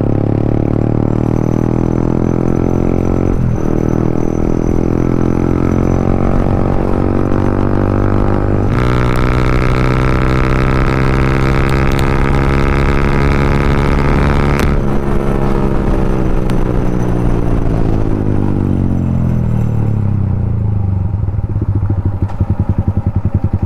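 Yamaha MT-15's 155 cc single-cylinder engine through an aftermarket Akrapovic exhaust, under way: the engine pitch climbs steadily through two brief gear-change breaks, about 3 and 9 seconds in, and the exhaust gets louder from the second shift. About 15 seconds in the throttle closes and the pitch falls away, settling low near the end.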